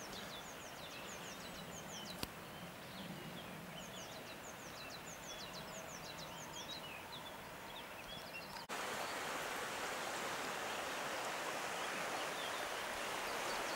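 Small birds singing, many quick high chirps over a quiet outdoor background. About two-thirds of the way through, the sound cuts abruptly to a steady rushing noise, with a few faint chirps still above it.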